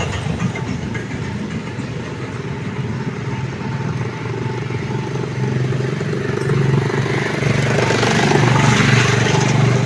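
A motor vehicle's engine running steadily over street noise, growing louder about seven seconds in.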